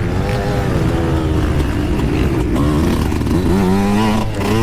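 Yamaha YZ125 single-cylinder two-stroke motocross engine being ridden hard, its pitch rising and falling with the throttle and climbing sharply about three and a half seconds in.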